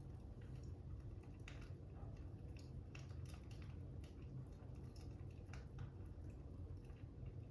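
Fire crackling faintly: irregular small pops and snaps over a low steady rumble.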